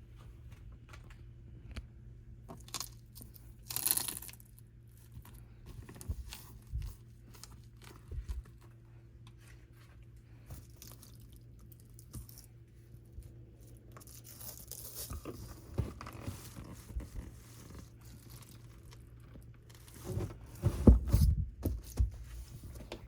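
Scattered rustling, clicks and knocks of objects being handled, with a cluster of heavier thumps near the end.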